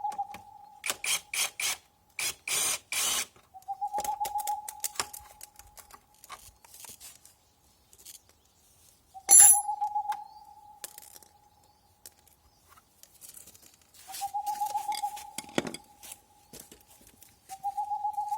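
Metal tools clinking and rattling, with one sharp metallic clink about nine seconds in, while a bird repeats a short whistled call, a quick trill running into a held note, every four to five seconds.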